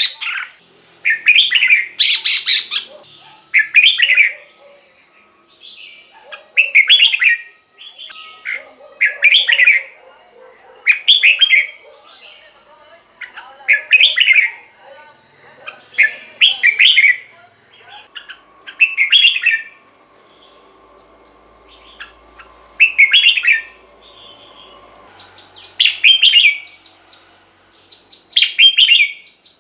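Red-whiskered bulbul singing loud, short, warbled song phrases, one about every two seconds, with a pause of a few seconds near the middle.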